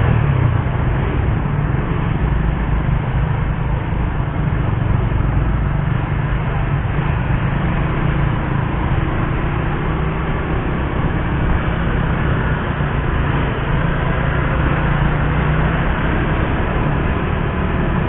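Suzuki GSX-R150's single-cylinder engine running at a fairly steady pace while the motorcycle is ridden, with a continuous rush of road noise underneath.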